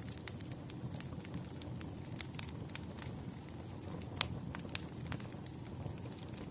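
Burning firewood crackling: irregular sharp pops and snaps over a steady low hiss of the flames, with one louder pop about four seconds in.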